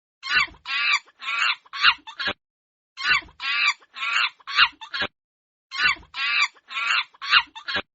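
Chicken clucking: a phrase of about five short clucks, repeated three times with brief pauses between.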